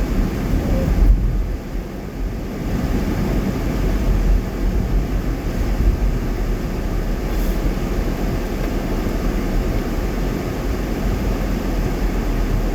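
Car driving at moderate speed, with a steady low rumble of road and tyre noise heard from inside the cabin.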